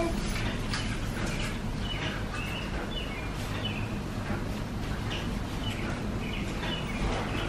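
Birds chirping in short, high, scattered calls over a steady low background rumble.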